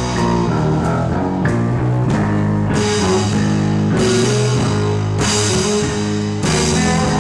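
Rock band playing live: distorted electric guitars holding chords over bass and drum kit, with crash-cymbal hits about every one to one and a half seconds as the song gets under way.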